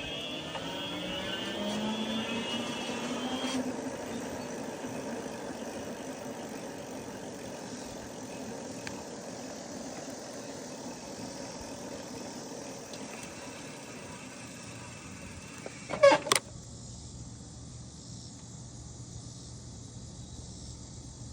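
Electric bike on the move: steady wind and tyre noise, with a rising whine for the first few seconds as it picks up speed. About sixteen seconds in, a very loud, brief double sound cuts through.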